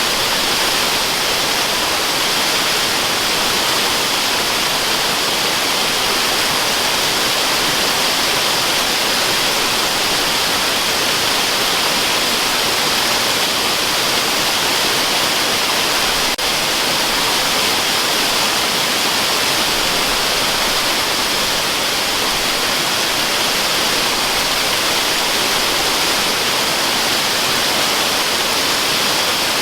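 Waterfall rushing in a steady, unbroken hiss, heaviest in the upper range, with one faint click about halfway through.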